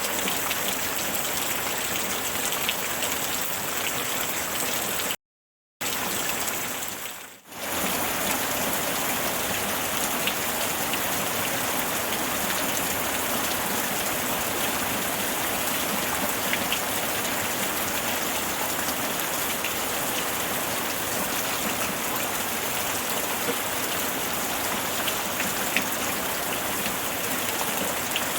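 Steady rain falling: an even hiss with a few faint drop ticks. The sound cuts out completely for about half a second around five seconds in, then dips briefly once more a couple of seconds later before carrying on unchanged.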